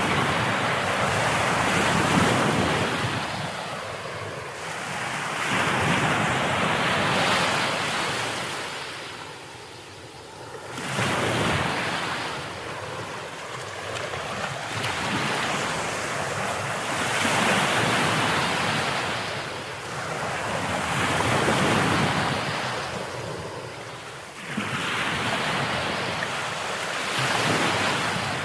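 Ocean waves breaking and washing up, the surf swelling and fading every few seconds, with one deeper lull before a sudden surge about eleven seconds in.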